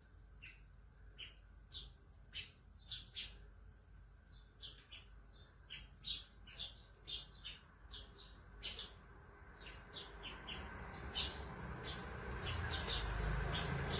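Small wild birds chirping, short separate calls a few times a second. In the second half a low rushing noise grows underneath.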